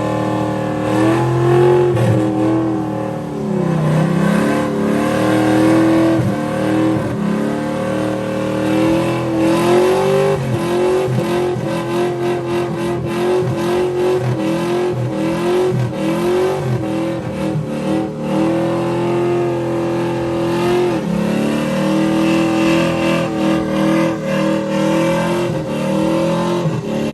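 A car engine held at high revs for a burnout, its pitch bobbing up and down with a few brief dips where the revs drop and climb back.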